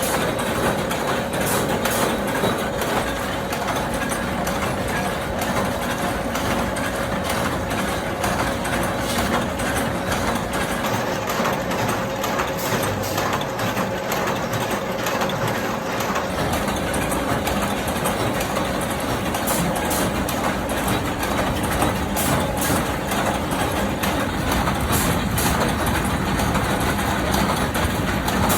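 Metalworking factory machinery running with a steady loud din, broken by many short knocks and clanks throughout.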